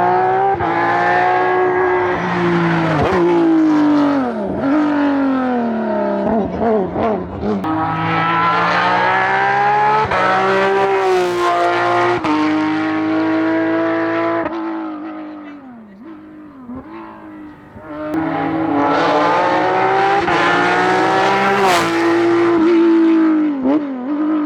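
Hillclimb race car engine running flat out, its pitch climbing through the revs and dropping at each gear change, with crackles on the lift-off. It fades briefly about two-thirds of the way through, then comes back hard and revs up again.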